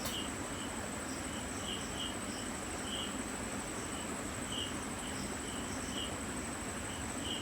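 Night insects, crickets: a steady high-pitched trill with short chirps scattered through it.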